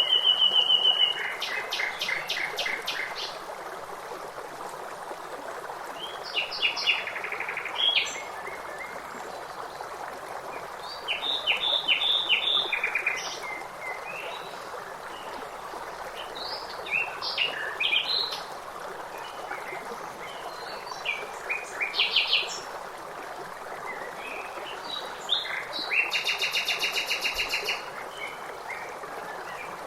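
Songbirds singing in short chirping phrases and rapid trills, with a fast trill near the end, over the steady rush of flowing water.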